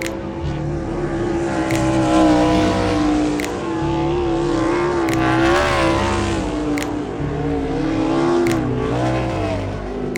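Sprint car engine running on the track, its pitch rising and falling, with background music with a steady beat underneath.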